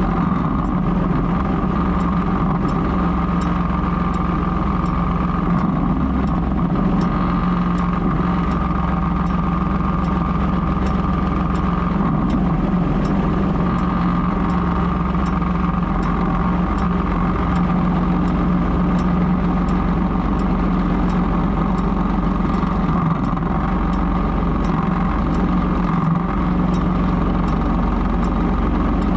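Ford 3000 tractor's three-cylinder engine running steadily at an even speed, with a faint regular ticking, about two a second.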